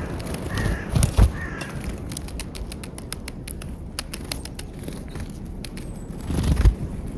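A bird at a peanut feeding spot calling three times in quick succession in the first second and a half, short cawing notes, with many small clicks and taps throughout and two low thumps, about a second in and near the end.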